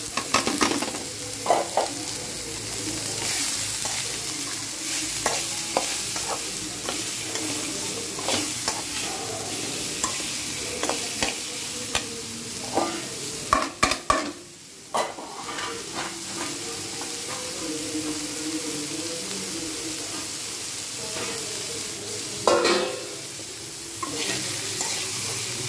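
Diced beetroot sizzling in hot oil in a metal kadai as it is stirred. A flat metal spatula scrapes and clicks against the pan every few seconds, most in a cluster about halfway through.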